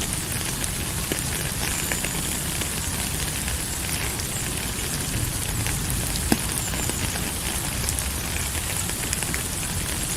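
Steady rain falling, an even hiss with scattered sharp drop ticks, one louder tick about six seconds in.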